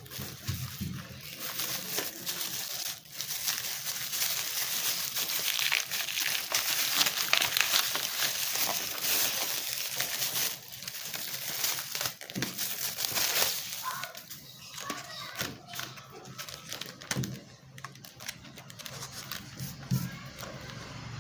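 Hard plastic clamshell packaging being handled and opened, crinkling and crackling. It is louder for about the first twelve seconds, then turns softer with scattered crackles.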